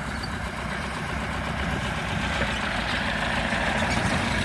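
A large vehicle's engine running as it comes on slowly, growing gradually louder.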